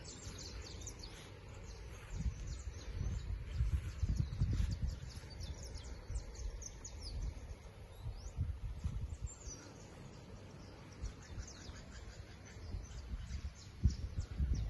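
Birds chirping outdoors: many short, high calls scattered throughout, over a low, uneven rumble.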